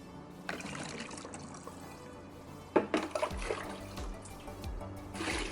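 Water being poured and splashing into a plastic bottle in uneven surges, over background music whose steady low beat starts about three seconds in.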